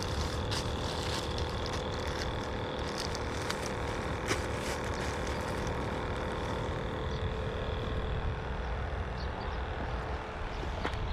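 Steady outdoor background noise: a low rumble with a faint steady hum and a few scattered light clicks.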